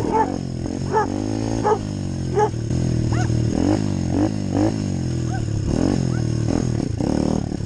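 A dog barking repeatedly, about one to two barks a second, over a steady low engine hum.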